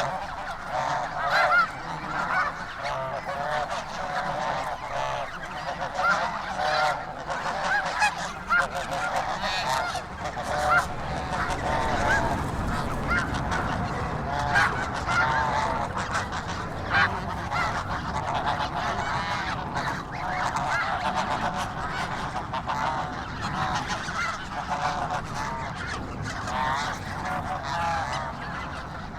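A large flock of geese honking together without pause, many overlapping calls.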